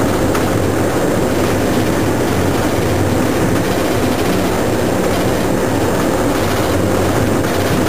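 Heard from inside a heritage railway locomotive's cab: a steady engine drone over the rumble of the train running along the track.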